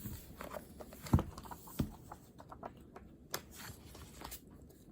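Pen writing on paper: irregular short scratching strokes and taps, with a sharper knock about a second in and another near two seconds.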